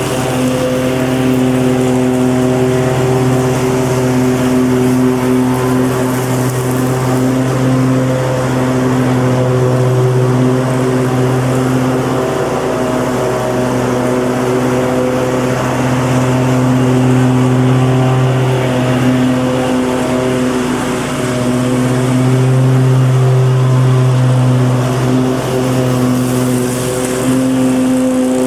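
Lawn mower engine running steadily at an even pitch, with gentle swells and dips in loudness.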